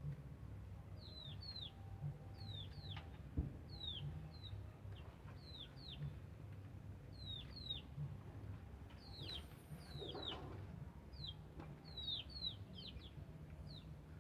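Small birds chirping: many short, high notes that sweep downward, often in quick pairs, repeated throughout. A single sharp knock sounds a little over three seconds in.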